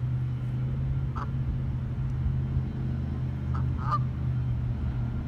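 Geese honking: a single honk about a second in, then two more close together near the middle, the second the loudest. A steady low hum runs beneath them.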